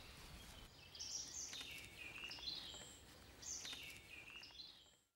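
Faint woodland birdsong: short high phrases sliding downward in pitch, repeated about once a second, fading out near the end.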